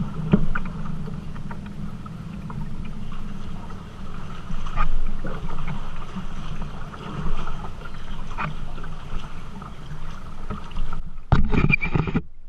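Kayak moving down a river: a steady rush of moving water with a few sharp paddle splashes. The sound changes abruptly about a second before the end.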